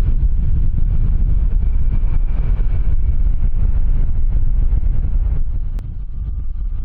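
Strong wind buffeting the microphone: a loud, gusting low rumble that eases a little near the end.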